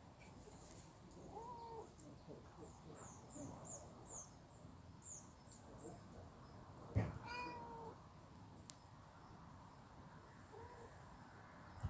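Stray cats calling faintly to each other in a standoff at their fighting spot, with short drawn-out cries and one louder, sharper cry about seven seconds in.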